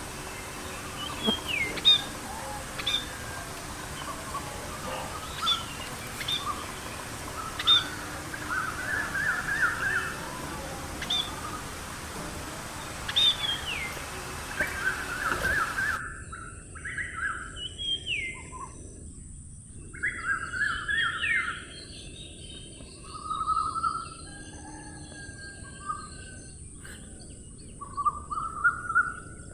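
Birds calling: repeated short whistles that slide downward, mixed with quick chattering trills. About halfway through, the background hiss drops away suddenly and the calls go on against a quieter background.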